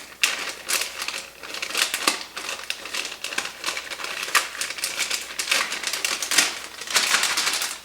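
Plastic MRE packaging crinkling and rustling in the hands, a dense run of irregular crackles, as the food pouch and flameless ration heater bag are handled.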